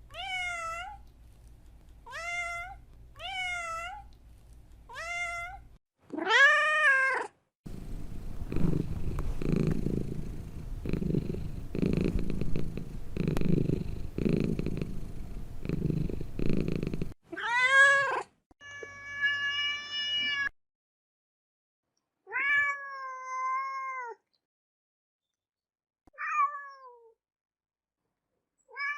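Domestic cats meowing. It opens with a run of short meows about one a second, then a louder meow. About eight seconds in, a low pulsing purr goes on for roughly ten seconds, and after it come several more separate meows, one of them long and drawn out.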